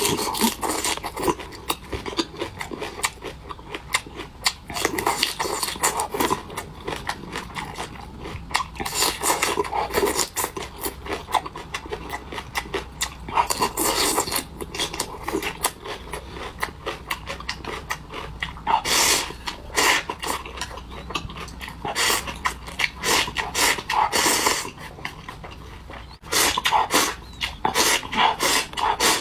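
People eating noisily: irregular chewing and slurping of sorghum rice in cold water with soy-sauce-dressed vegetables, full of short wet clicks and smacks.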